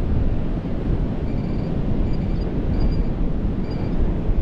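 Strong wind buffeting the microphone with a steady low rumble. Faint short electronic beeps from a metal detector come through it several times over the last few seconds, as a small target is being searched for.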